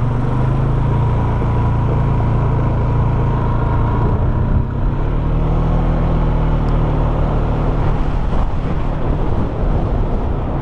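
Polaris Sportsman 570 SP ATV's single-cylinder engine running steadily while being ridden, its note shifting a little in pitch about halfway through.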